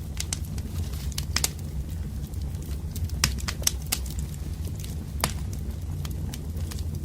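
Wood fire burning, with a steady low rumble and irregular sharp crackles and pops from the burning logs, a few in quick clusters.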